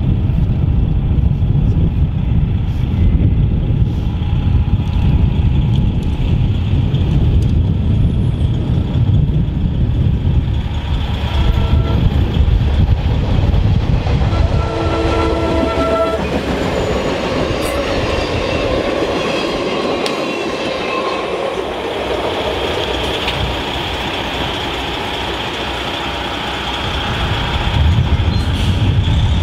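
Diesel locomotive horn on a CSX SD40-2 sounding two blasts, a short one then a longer one, as the train nears a grade crossing. The short train then passes over the crossing with steady wheel-on-rail noise for several seconds. A low rumble runs under the first third and returns near the end.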